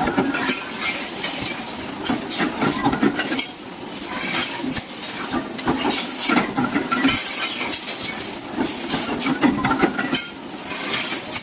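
Continuous, irregular metallic clattering and clinking over a constant machine noise, typical of factory machinery handling metal discs.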